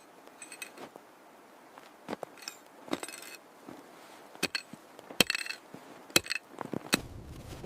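Irregular sharp knocks and ringing clinks of hard objects struck together, about a dozen spread over several seconds. Near the end a steady low rumble sets in.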